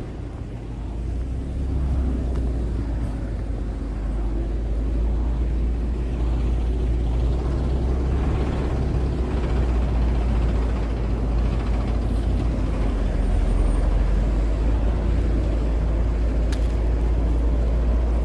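Evening street ambience: a steady low rumble of road traffic, with cars passing. There is a faint click near the end.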